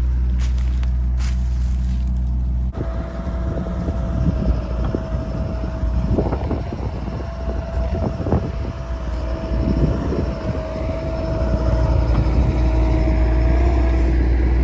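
Excavator's diesel engine running with a steady hydraulic whine, the sound changing abruptly about three seconds in. There are several sharp knocks in the middle, and the engine grows louder under load near the end.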